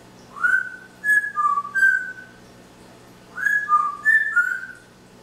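Pet parrot whistling a short tune of about four clear notes, then whistling it again about a second later.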